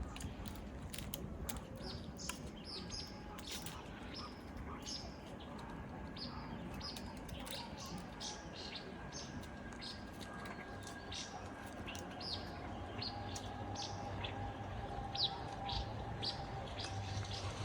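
Small birds chirping: a rapid run of short, high chirps, several a second.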